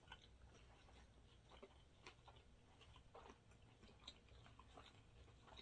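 Faint chewing of sushi: scattered small clicks and smacks from the mouth at an uneven pace, over a low steady hum.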